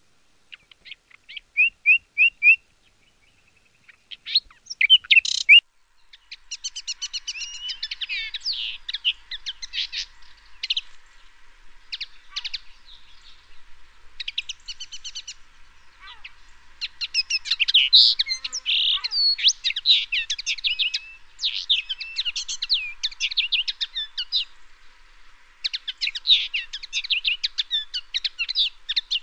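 Songbirds singing. A run of four or five quick repeated chirps comes first, then a short pause, then from about six seconds in a dense, varied stream of high chirps and trills that goes on with brief gaps.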